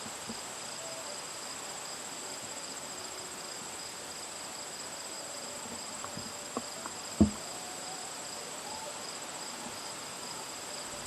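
Steady, high-pitched chirring of late-summer insects, unbroken throughout, with a single sharp knock about seven seconds in.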